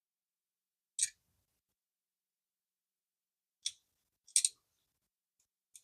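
A few brief clicks and light scrapes of small metal spinning-reel parts being handled and worked on the bench: one about a second in, two more close together past the middle and a faint one at the end, with silence between.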